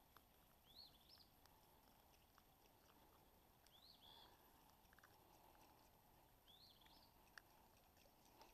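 Near silence, with a bird's faint short call repeated three times about three seconds apart and a few faint ticks.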